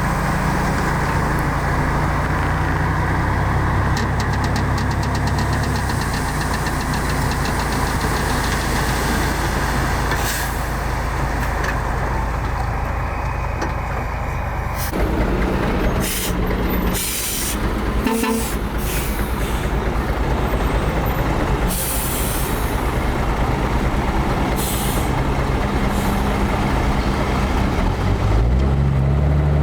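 Heavy diesel engines of a bulldozer and dump trucks running steadily, with several short hisses in the second half and the engine pitch rising and falling near the end as it revs.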